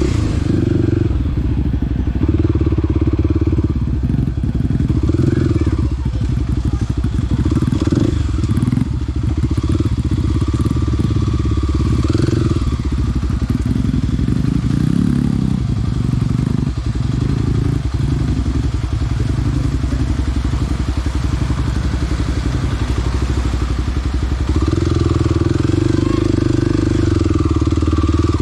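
Small dirt bike engine running under way, its note rising and falling as the throttle changes.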